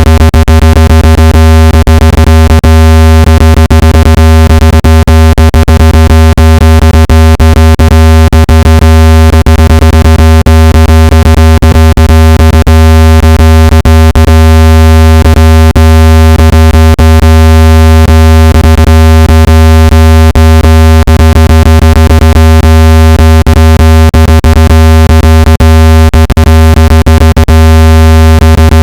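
Synthesized speaker-cleaning tone: a very loud, steady low electronic hum with many overtones, broken by frequent irregular clicks. It is meant to make a phone speaker vibrate hard enough to shake out dust and moisture.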